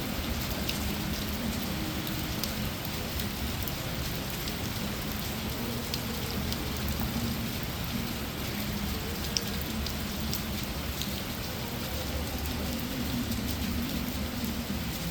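Heavy rain pouring down steadily, with scattered sharp drop ticks and one louder tap about nine seconds in.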